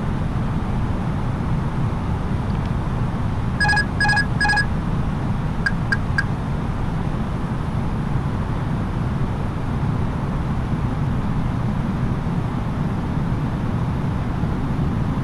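Steady low cabin noise of an Airbus A330-900neo airliner on approach: airflow and its Rolls-Royce Trent 7000 engines. Three short beeps come about four seconds in, and three fainter ones about two seconds later.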